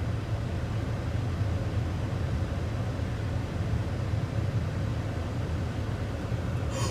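Steady road and engine noise of a car driving, an even rumble with no sudden impacts.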